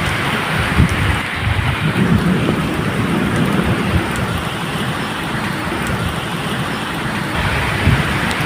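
Steady medium rain, with a low rumble of thunder underneath.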